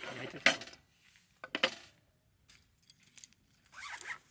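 A few light clinks and taps of tableware, cutlery or glassware being handled.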